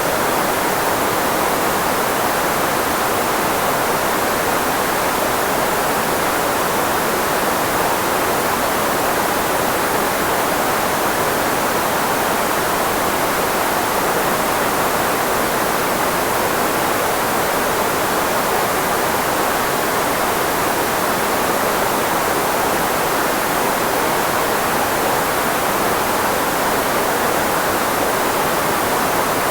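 Steady synthetic filtered white noise, shaped to mask the frequencies of the human voice. It is an even hiss, strongest in the middle range and thin in the bass, with no change throughout.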